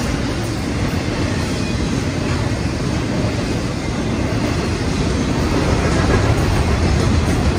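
A train passing: a steady rumble of wheels rolling on rail, swelling a little near the end.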